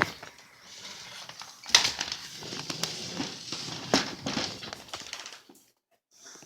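Footsteps and rustling of someone walking over, with a few sharp knocks about two seconds apart; it stops a little over five seconds in.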